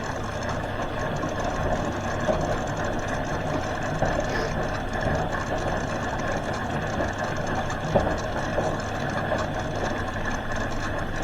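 Hoover H-Wash 300 Plus washing machine running through its final rinse: a steady churning noise with a few light knocks.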